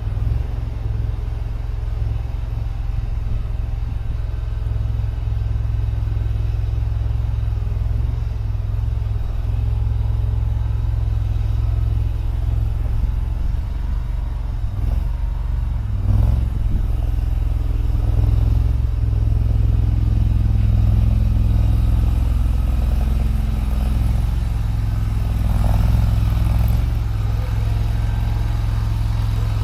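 Skid steer loader's engine running steadily at working speed while the bucket pushes debris, with a knock about halfway through and the engine note swelling briefly under load a couple of times later on.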